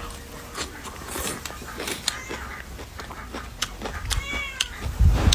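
A cat meowing once, about four seconds in, a short call that rises and falls in pitch, amid scattered sharp clicks and taps.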